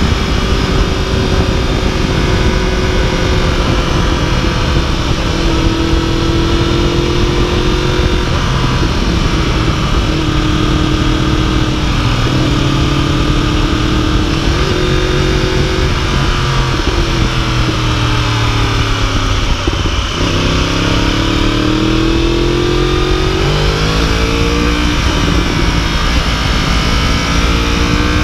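2015 Yamaha YZF-R1's crossplane inline-four engine running at road speed, heard from the dash, over a heavy rush of wind on the microphone. Its pitch holds steady with small steps, drops about twenty seconds in, then climbs steeply as the bike accelerates.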